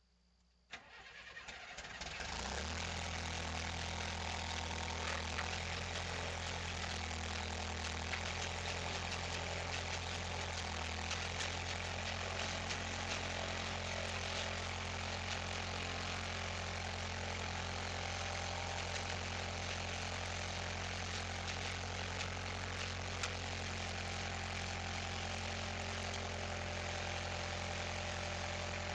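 An engine starts about a second in, picks up over a couple of seconds, and settles into steady running with a low hum and a crackly rattle over it.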